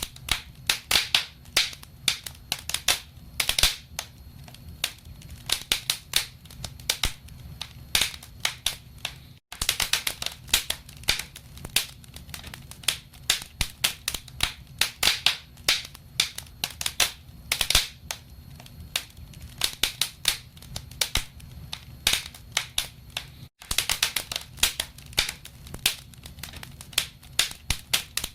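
Wood fire crackling in a fireplace: irregular sharp pops and snaps over a low steady rumble. The sound cuts out for an instant twice.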